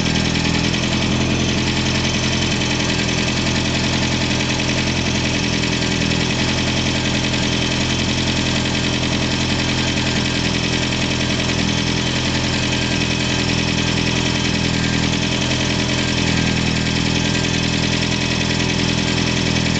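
Freshly rebuilt Ford 2.3-litre turbocharged four-cylinder engine idling steadily on its first run.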